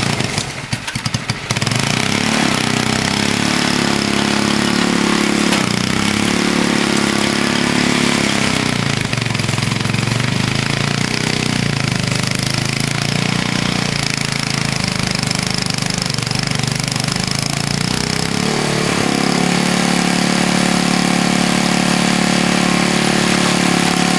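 Vintage Snow Bird snowblower's engine running under load while it cuts into hard, ice-packed snow, its note dipping and recovering several times as it bogs down a little, then running steady near the end.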